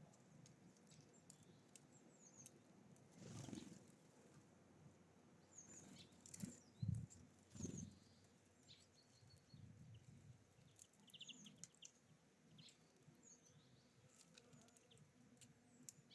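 Faint high chirps and a short trill of small songbirds at a feeder, with scattered light clicks and a few soft low thumps and rustles. The thumps are loudest a little past the middle.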